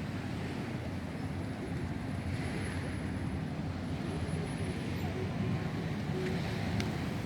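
Steady low outdoor rumble of background noise.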